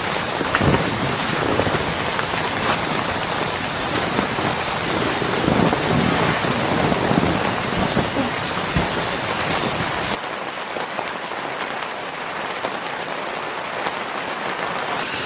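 Steady rain falling, a dense hiss with scattered drop taps. About ten seconds in it cuts abruptly to a thinner, quieter rain hiss.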